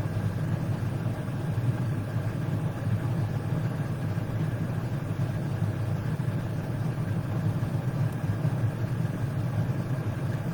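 A steady, unchanging low hum with no speech, of the kind an idling engine or other running machine makes.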